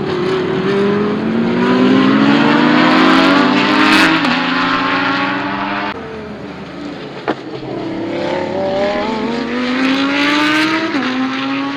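Big-turbo VW Golf 7 GTI's turbocharged four-cylinder engine accelerating hard, its pitch climbing steadily and dropping sharply at an upshift about four seconds in. It then eases off, with a single sharp crack soon after, pulls up through the revs again, and shifts once more near the end.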